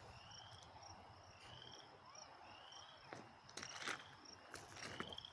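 Faint chorus of frogs: short rising peeps repeating about once a second over a steady high trill, with a few light clicks past the middle.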